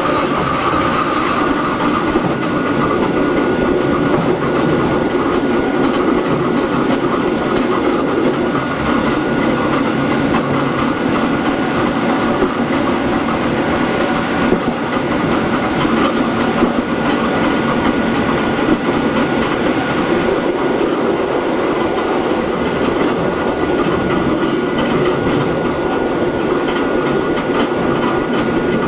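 Running sound of Hakone Tozan Railway Moha 1 car No. 106, with nose-suspended traction motors (SE121-A) on Nippon Sharyo NA7 bogies. A steady rumble of wheels and motors, with a thin steady whine and wheels clicking over rail joints.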